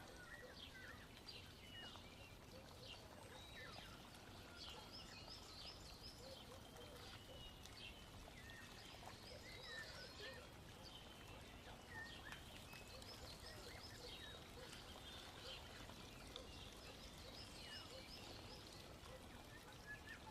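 Faint birds chirping over a low background hiss, many short calls throughout, the whole at near-silent level.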